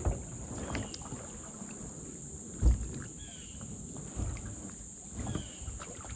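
Insects, crickets among them, droning steadily in one high band. A few dull knocks from the kayak stand out, the loudest about two and a half seconds in.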